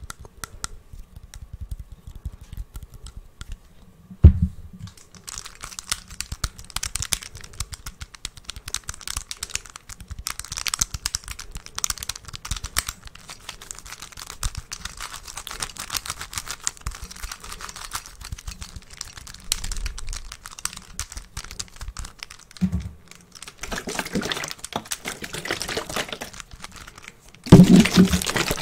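Fast ASMR finger tapping: rapid, dense little taps that begin sparse and become continuous about five seconds in. A single knock comes about four seconds in, and a louder clatter of taps near the end.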